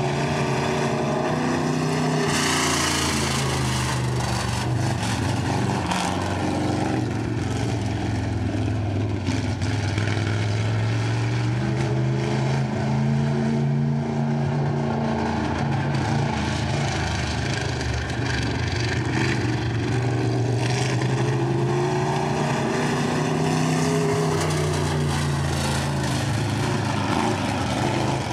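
B-Mod race car engine running on a dirt oval, its pitch rising and falling over and over as it accelerates and lifts around the track.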